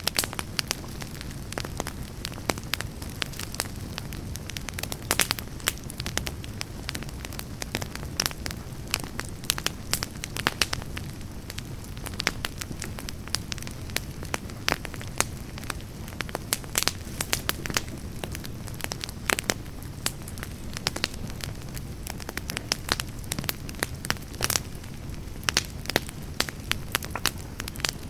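Wood campfire burning, with frequent irregular crackles and sharp pops from the logs over a steady low rumble of the flames.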